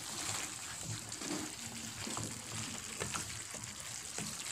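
Vegetables sizzling in a hot pan as a wooden spatula stirs them, with a steady hiss and a few light clicks and scrapes of the spatula against the pan.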